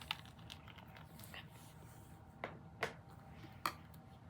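A few soft, sharp clicks from a remote control being pressed or tapped close to the microphone, three of them spaced unevenly in the second half.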